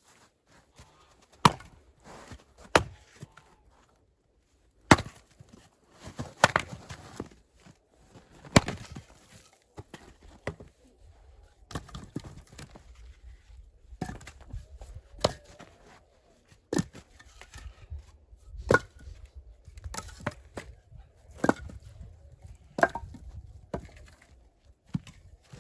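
Axe blows striking wood, a sharp chop every one to two seconds with handling and rustling between.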